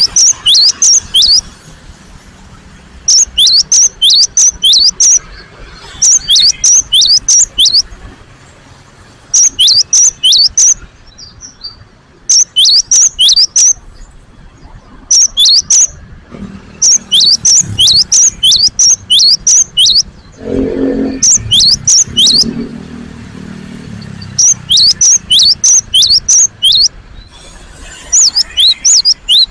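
Cinereous tit (gelatik batu) calling loudly: bouts of rapid, sharp, falling high notes, each bout about two seconds long, repeated after short pauses. About two-thirds of the way through, a brief low rumble sounds beneath the calls.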